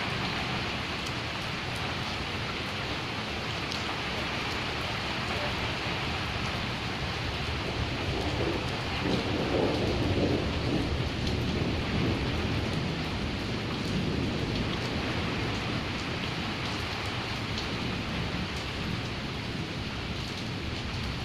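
Steady rain falling, with a low rumble of thunder that swells about eight seconds in and fades over a few seconds.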